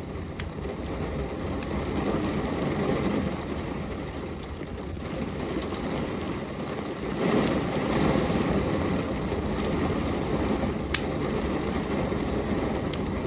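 Steady rain, dense and rushing, swelling about seven seconds in, with a few sharp pops and crackles from a burning wood fire.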